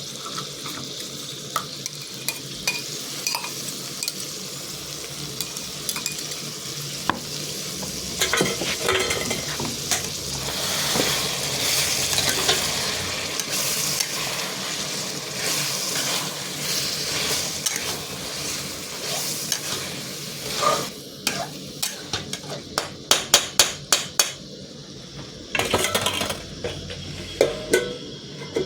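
Chicken curry frying in a pan, sizzling steadily, while a spoon stirs it and scrapes against the pan. The sizzle swells in the middle, and near the end a quick run of sharp clinks and scrapes comes from the spoon on the metal.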